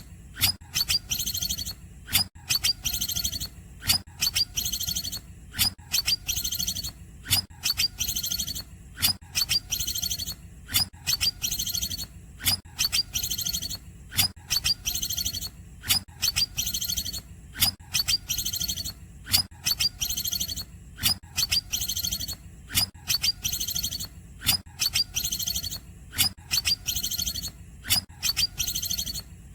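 Green leafbird (cucak ijo) singing short, rapid, high-pitched chirping phrases, repeated evenly about once a second, over a steady low hum.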